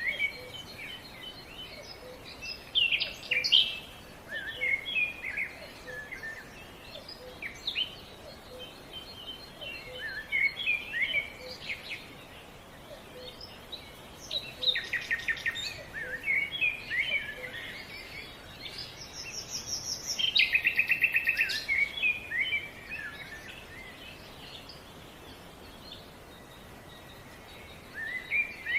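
Songbirds singing in short bouts of chirps and warbled phrases, with a fast, rapid trill about two-thirds of the way through, over a steady background hiss.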